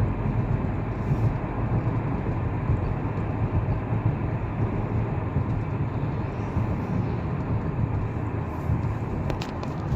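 A car driving along, with the steady low rumble of tyres and engine. A few short clicks come near the end.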